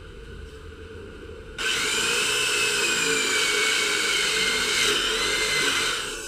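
An electric power tool starts about a second and a half in and runs loudly for about four and a half seconds with a high whine that dips and rises in pitch, then stops. A low steady hum runs underneath.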